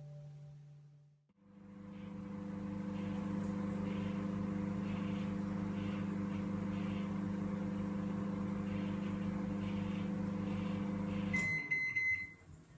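Microwave oven running with a steady hum for about ten seconds, then stopping, followed by a few short high beeps signalling that the cooking time is done.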